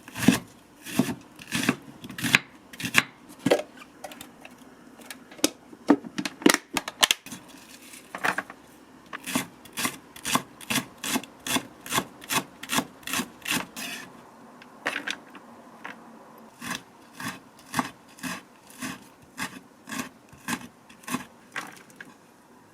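Knife cutting food on a cutting board: a long run of sharp strokes, irregular at first, then steady at about two a second, with a short pause partway through.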